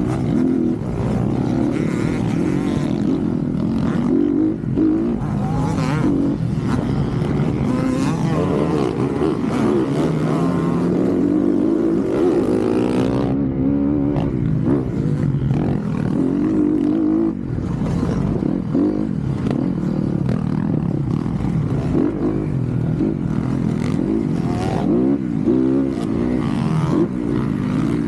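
Dirt bike engine revving up and down over and over, its pitch rising and falling as it is ridden hard around a motocross track.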